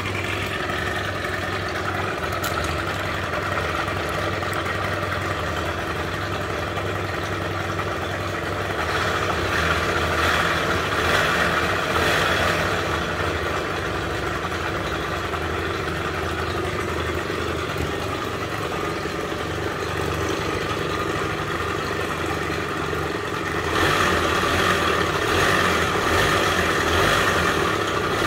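Suzuki Let's 2 scooter's small two-stroke engine running at idle, picking up speed twice: about nine seconds in for a few seconds, and again near the end. It carries an extraneous noise that the owner suspects is a bearing.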